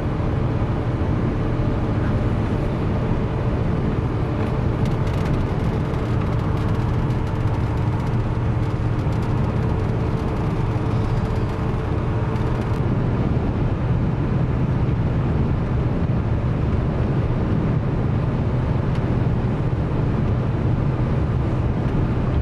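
Steady road and engine noise heard from inside a car driving along a highway, a low drone. A faint hum of several steady tones above it stops suddenly about halfway through.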